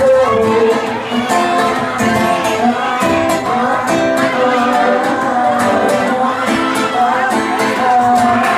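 Live band music: a song sung over strummed guitar.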